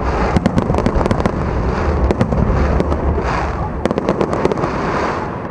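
Fireworks finale barrage: dense, rapid bangs and crackling over a continuous low rumble, dying away near the end.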